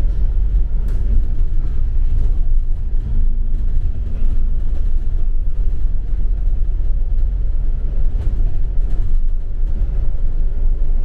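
Double-decker bus driving along: a steady low engine and road rumble heard from inside the bus, with a faint engine hum that comes and goes.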